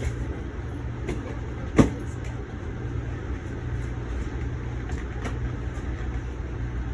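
Steady low rumble inside an Amtrak Northeast Regional passenger car, with one sharp knock a couple of seconds in and a few faint clicks.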